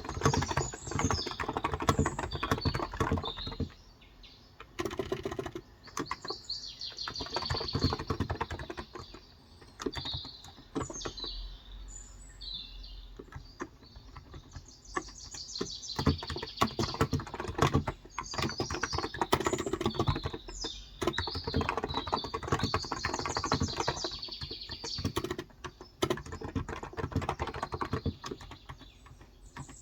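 Typing on a Cox Endeavor electrostatic-capacitive (contactless) keyboard with 35 g switches, in bursts of rapid keystrokes with short pauses between them. Small birds chirp throughout.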